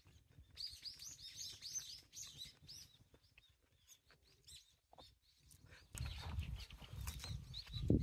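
A small bird chirping a quick string of high notes, about four a second, for a couple of seconds. Near the end a low rumbling noise comes in on the microphone, with a thump at the very end.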